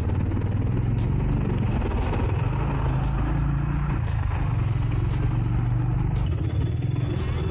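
Honda H'ness CB350's air-cooled single-cylinder engine running steadily under way, with road noise.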